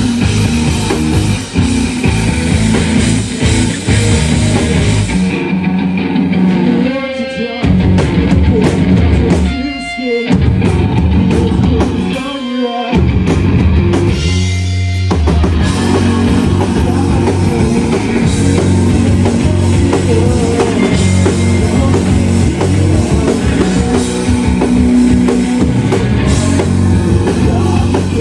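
Live shoegaze rock band playing: dense distorted electric guitars over bass and drum kit. The sound thins out for several seconds near the middle, losing its top end, then the full band comes back in.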